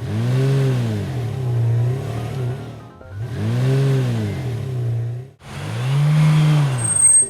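Cartoon vehicle engine sound effect, revving three times, each rev rising and then falling in pitch over two to three seconds.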